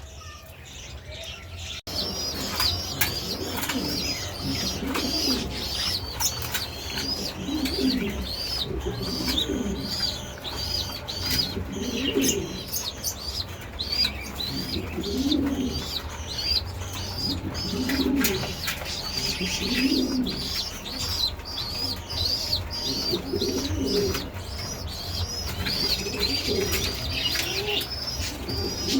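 Pigeons cooing in a loft, low phrases every two or three seconds, over fast, steady high chirping from smaller birds, all starting about two seconds in.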